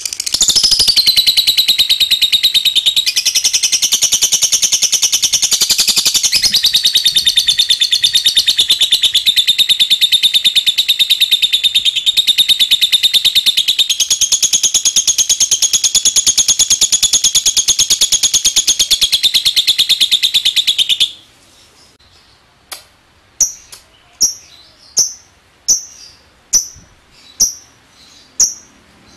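Lovebird giving a long ngekek: a loud, rapid, unbroken rattling trill that runs for about twenty seconds and then cuts off suddenly. It is followed by single short, high chirps, about nine of them, a little under a second apart.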